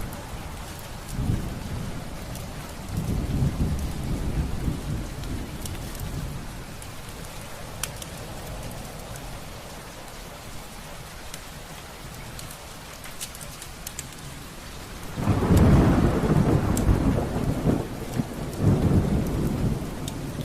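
Steady rain with thunder rumbling several times, the loudest and longest roll starting about fifteen seconds in. A fire crackles sharply now and then.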